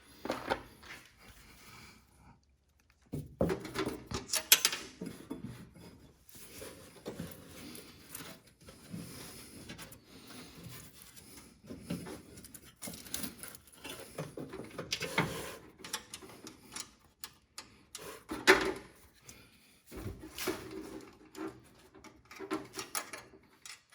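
Hand work on lawn tractor mower deck hardware: scattered metal clicks and knocks with handling noise as washers and clips are fitted onto the deck hangers.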